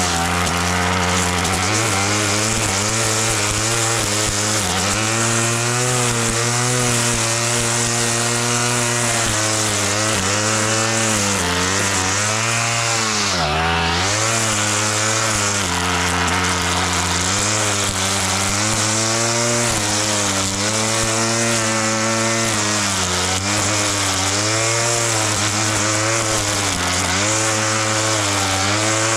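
Petrol grass-cutting machine engine running hard and steadily, its pitch repeatedly sagging and recovering as it is loaded by cutting grass, with one deep dip about halfway through.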